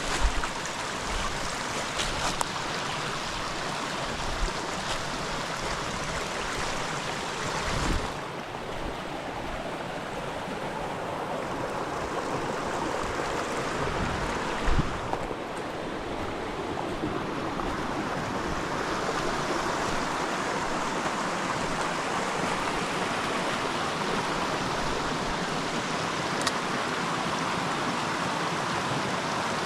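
Creek water running steadily, with a few dull thumps about 8 and 15 seconds in.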